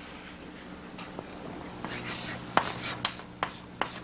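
Writing strokes on a board: after a short quiet spell, a quick run of short scratchy strokes with a few sharp taps, over a faint steady hum.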